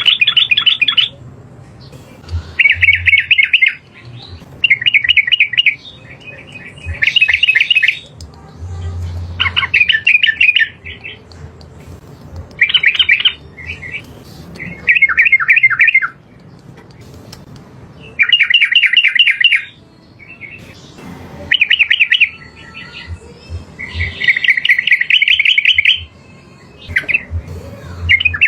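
Yellow-vented bulbul (trucukan) singing a long string of loud, bubbling, rapidly warbled phrases, each about a second long, repeated every couple of seconds with short pauses between them.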